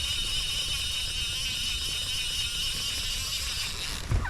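Steady high-pitched whirring that cuts off suddenly about four seconds in, over a low rumble of wind on the microphone.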